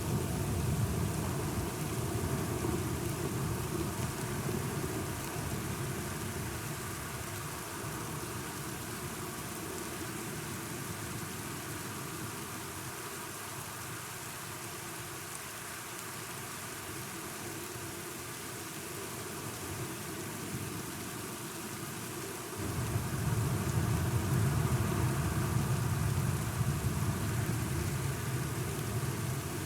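Steady rain with low thunder rumbling. The rumble fades out over the first several seconds, leaving the rain alone, then a new roll of thunder starts suddenly about three-quarters of the way through and carries on.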